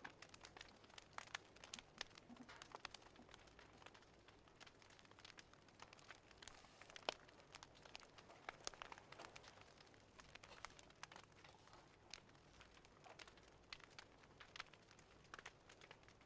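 Faint crackling of a fireplace fire: irregular sharp snaps and pops over a low hiss.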